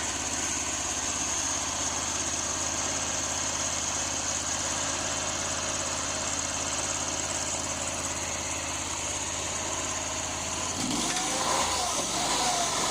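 Predator 670 V-twin small gasoline engine idling steadily. About two seconds before the end the steady hum changes and a wavering higher-pitched sound comes in.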